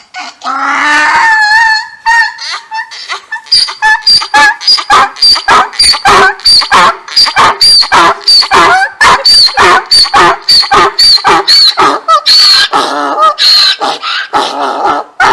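Animal calls: one long wavering cry, then a rapid run of short, sharp calls, about two or three a second.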